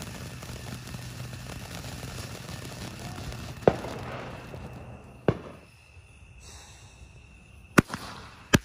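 Consumer fireworks going off: a ground fountain hisses steadily as it sprays sparks, then dies down about five seconds in. Sharp bangs cut through twice in the middle and twice more near the end.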